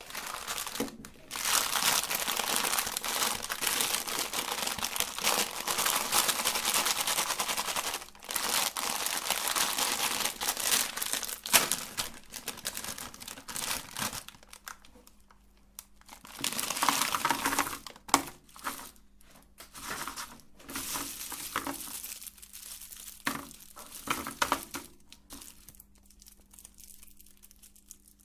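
Plastic candy packaging crinkling and rustling as it is handled, in long continuous stretches at first, then in shorter separate bursts that thin out toward the end.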